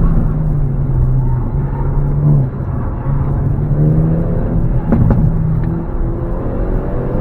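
Hyundai Elantra N's turbocharged four-cylinder engine pulling hard through an autocross course, heard from inside the car. The engine note drops about two and a half seconds in, then climbs again as the car accelerates.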